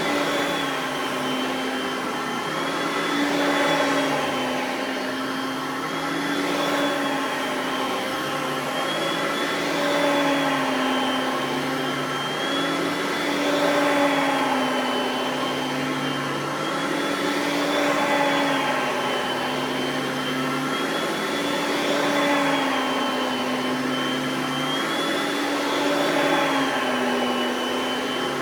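Oreck XL Platinum upright vacuum cleaner running steadily. Its motor whine dips and rises in pitch, with loudness swelling, about every four seconds.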